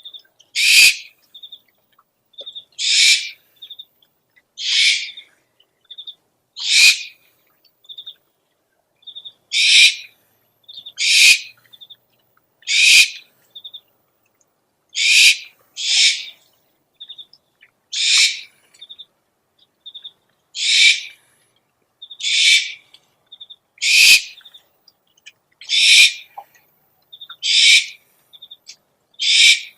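Owl calls: a harsh, hissing screech repeated every one and a half to two seconds, with short high twittering notes between the screeches.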